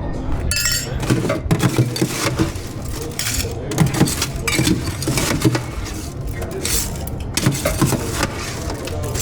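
Cocktail-making at a bar: glassware and metal bar tools clinking and knocking irregularly, with a short bright ringing tone about half a second in.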